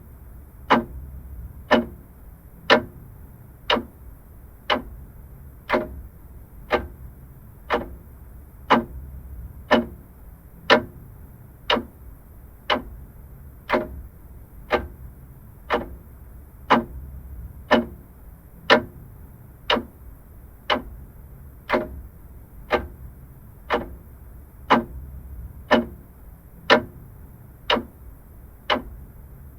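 Vintage mechanical clock ticking steadily, about one tick a second.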